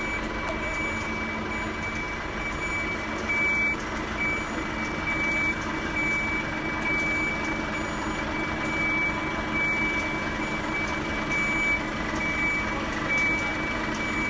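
Vehicle warning beeper sounding a high, evenly repeating beep over a steadily running engine, typical of a reversing or motion alarm on heavy lifting or haulage equipment.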